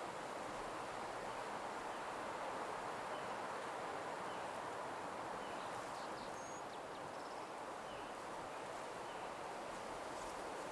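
Nature ambience: a steady soft rush like wind through leaves, with a few faint, short bird chirps scattered through it.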